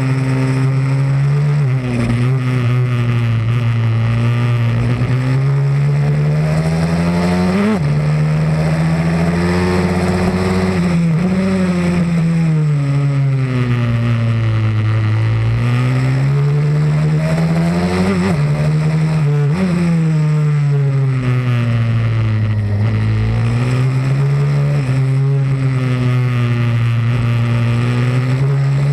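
Pit bike's single-cylinder engine running hard around the track, its pitch repeatedly climbing and falling over a few seconds at a time, with a few sudden drops in pitch.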